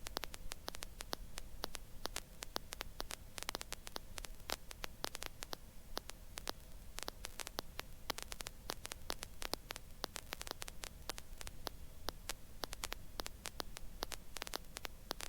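Faint electrical static on a helicopter intercom line: a steady low hum with frequent irregular crackling clicks.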